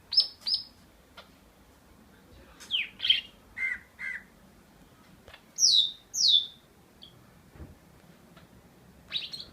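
Pet green leafbird giving scattered short, high chirps and calls, with quiet gaps between. The loudest are two falling notes in quick succession about six seconds in.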